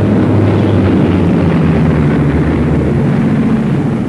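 Aircraft engine running with a steady, loud, low drone.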